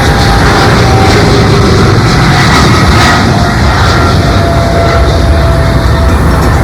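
Airliner flying past at close range: loud, steady engine noise with a few tones in it that slowly fall in pitch.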